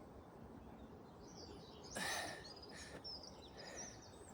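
Small birds chirping and singing in the background of quiet outdoor ambience, with one brief noise about two seconds in.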